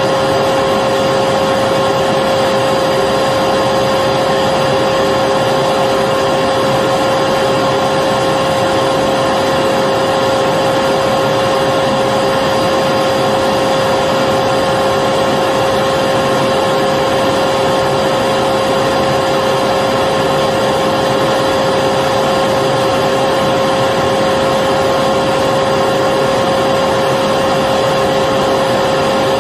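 Electric vacuum cleaner running steadily, a constant whine over an even rush of air with no change in speed.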